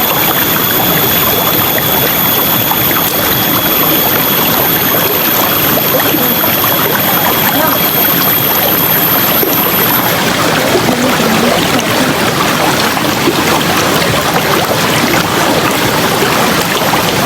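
River water flowing, a steady, even rush of water.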